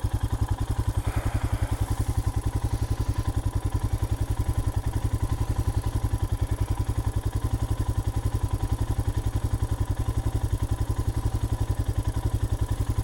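2020 Royal Enfield Himalayan's 411 cc single-cylinder engine running steadily, with an even low thump of about eight beats a second.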